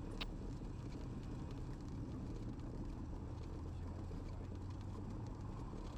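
Cessna 182RG's engine at idle during the landing rollout, a faint steady low hum with one light tick near the start.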